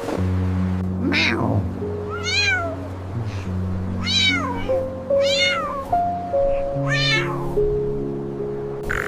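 A cat meowing several times, each meow rising then falling in pitch, over background music.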